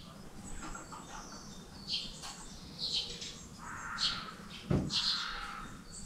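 Birds chirping in short, high calls, about one a second, with a single low thump a little past the middle.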